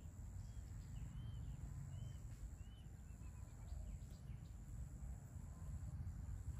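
Quiet field ambience: a low steady rumble with a few faint, short, high bird chirps, and a quick run of falling notes about three seconds in.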